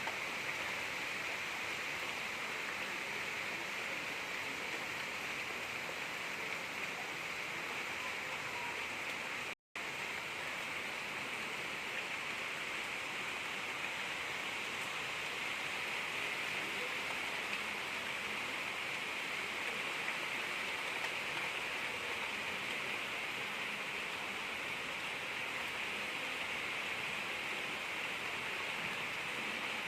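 Gentle rain falling steadily, an even hiss with no thunder. It cuts out to silence for an instant about ten seconds in.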